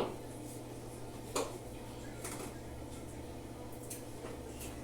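A few short, light knocks and clicks of things being handled in a kitchen, the clearest about a second and a half in, over a steady low hum.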